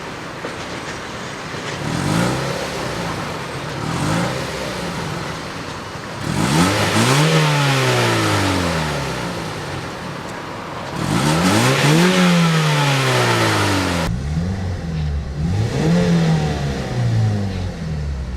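2006 Mazda 6 engine revved while parked: two light blips, then two long revs that climb high and fall back to idle, then a run of short quick blips.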